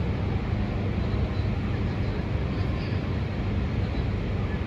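Steady low vehicle rumble at an even level, with no sudden changes.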